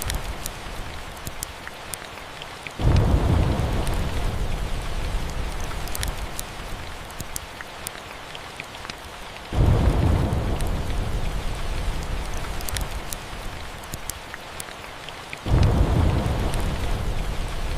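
Steady rain with three rolls of thunder, each starting suddenly (about three seconds in, about ten seconds in, and near the end) and fading slowly. Small sharp ticks are scattered through it.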